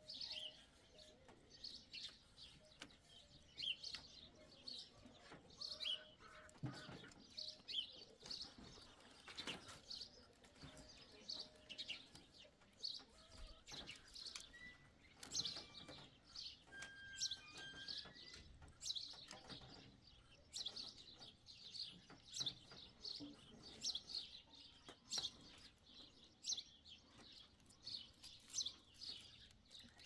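Small birds chirping over and over, with a few brief whistled notes around the middle and occasional soft clicks.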